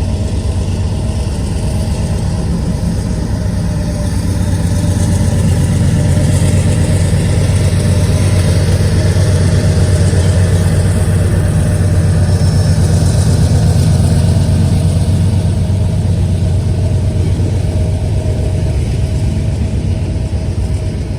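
Diesel locomotives of a BNSF freight train running, a steady low drone that grows louder toward the middle and eases off slightly near the end.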